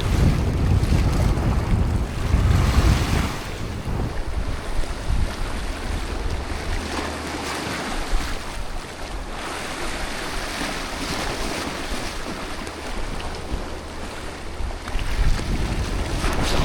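Sea surf washing against shore rocks, with gusts of wind buffeting the microphone, strongest in the first few seconds and again near the end.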